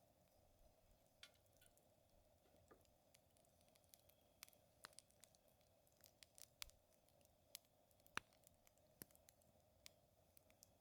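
Wood fire crackling: irregular sharp pops and snaps from the burning wood, the loudest about eight seconds in, over a faint steady hum.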